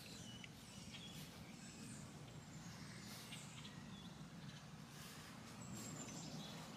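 Faint outdoor ambience: scattered short, high bird chirps over a steady low background noise.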